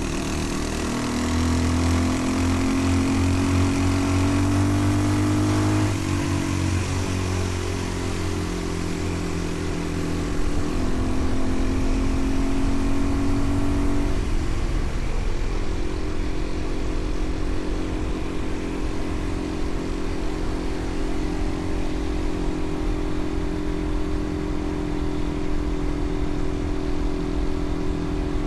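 Motorcycle engine pulling the bike up through the gears. Its pitch rises, drops at a shift about six seconds in, rises again and drops at another shift around fourteen seconds, then holds steady at cruising speed.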